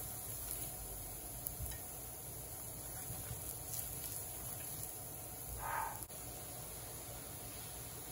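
Paratha frying in oil in a nonstick pan, a quiet steady sizzle, with a metal spoon spreading oil over it: a few light taps and one short scrape a little past the middle.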